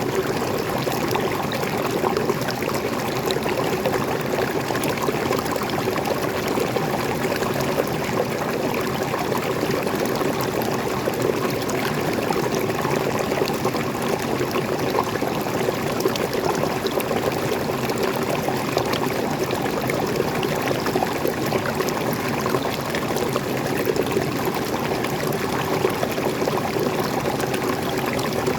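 Small waterfall with water pouring and splashing steadily, a constant rushing with many small splashes and no letup.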